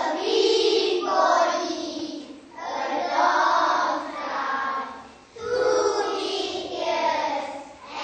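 A group of young children singing together in unison, in three long phrases with held notes.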